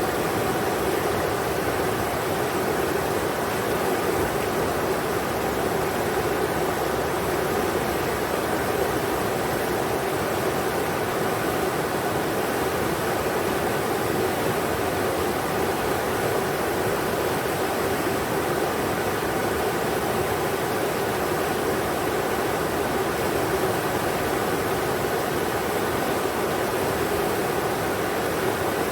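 Englishman River rushing: a steady, even roar of flowing water over rocks, with no change throughout.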